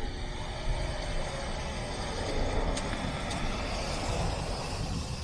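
2008 Honda Pilot's V6 engine running as the SUV is driven slowly into the tire shop's service bay, a steady low rumble that swells slightly in the middle.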